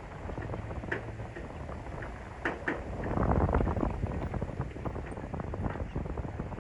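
Wind buffeting the microphone: a rough low rumble that swells about three seconds in, with a few faint short ticks.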